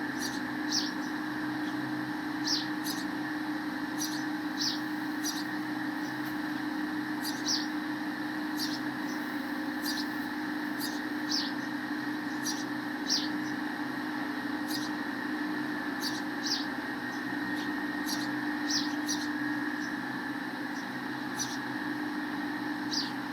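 Sparrows giving short, sharp chirps, one every second or two, over a steady background hum.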